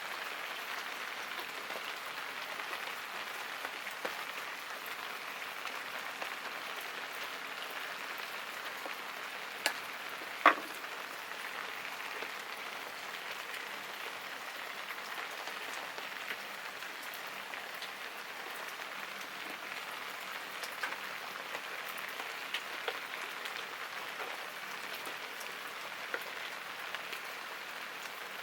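Steady rain falling, an even hiss with scattered drip ticks. Two sharp clicks stand out about ten seconds in, the second the loudest sound.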